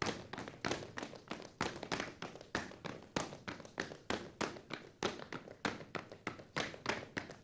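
Step team performing: rhythmic foot stomps and hand claps, several sharp hits a second in a repeating pattern.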